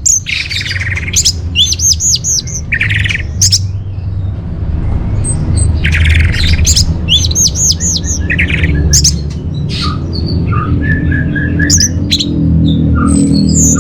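Orange-headed thrush singing a varied run of quick whistled phrases, repeated high notes and chattering notes, over a steady low hum.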